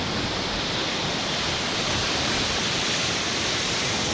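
Steady rush of ocean surf and moving seawater, an even hiss with no distinct wave breaks.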